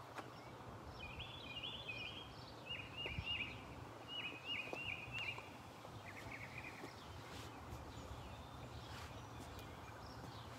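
A songbird singing in four short runs of quick repeated chirping notes over about six seconds, over a low steady background rumble.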